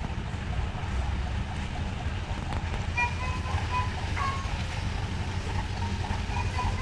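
Steady low rumble of a passenger ferry's engines at the pier, under a haze of wind and water noise.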